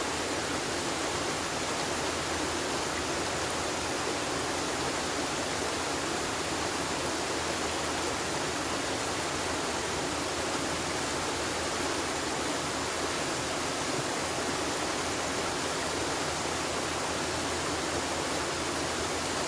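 River water flowing in a steady, even rush with no change in level.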